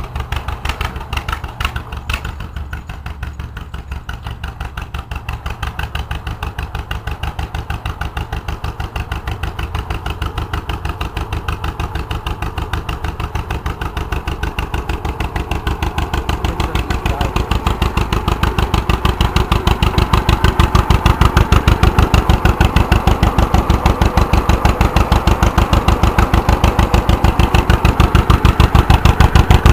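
Homemade tractor's engine running with an even, rapid firing beat, growing louder through the middle and staying loud toward the end.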